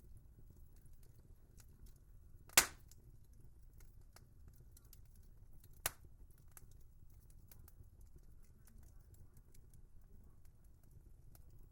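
Wood fire crackling, with faint scattered ticks over a low rumble of the flames, one loud sharp pop about two and a half seconds in and a smaller pop a few seconds later.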